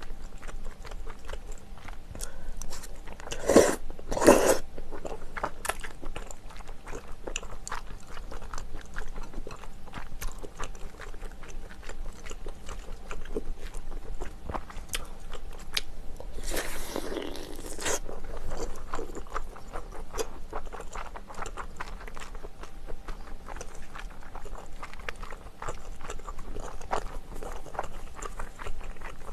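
Close-miked eating: chewing with crunching, biting and wet mouth sounds, with two louder bites about four seconds in and a longer noisy sound about halfway through.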